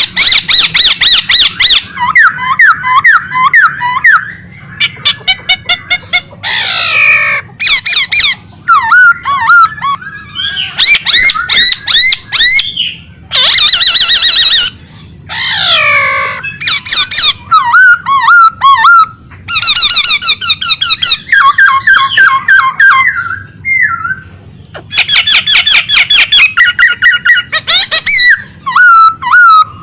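A songbird the owner calls 'ade', in full, energetic song: loud, fast runs of repeated chirps, trills and whistled glides in varied phrases, broken by short pauses.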